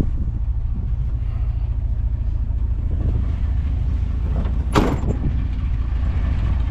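1990 Dodge Power Ram pickup idling with a steady low rumble through its glass-pack muffler. A single sharp click or knock a little under five seconds in.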